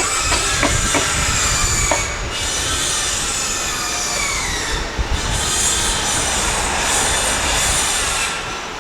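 A passing train, its wheels squealing on the rails with a high, steady screech, after a few sharp clicks of the wheels over the rail joints in the first couple of seconds; the squeal fades near the end.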